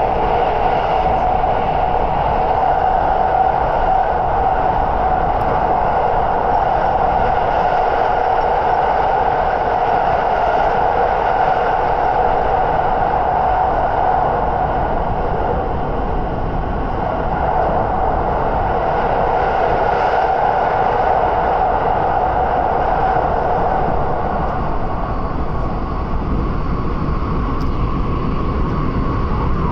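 Running noise inside the passenger cabin of a 683-series limited express EMU motor car at speed: an even rumble of wheels on rail with a steady tone above it.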